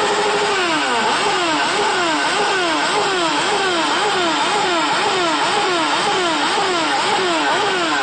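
Superbike engine revved up and down in quick, regular throttle blips, about two a second, its pitch rising and falling over and over.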